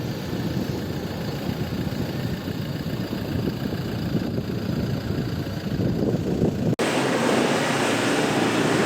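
A 4x4 SUV's diesel engine running with a steady low rumble. About seven seconds in, the sound cuts abruptly to a brighter, hissier vehicle noise with little low end.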